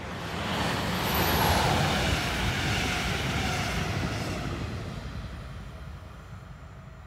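Electric passenger train, a locomotive hauling coaches, passing over the level crossing: a rushing of wheels on rail that swells to its loudest about a second and a half in and then fades away. A faint whine drops in pitch as it goes by.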